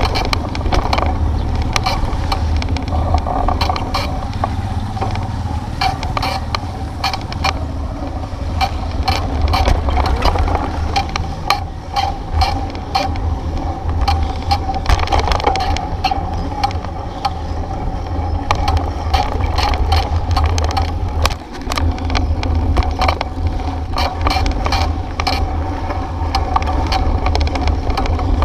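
Bicycle ride over a rough road: quick, irregular rattles and clicks from the bike over a steady low rumble.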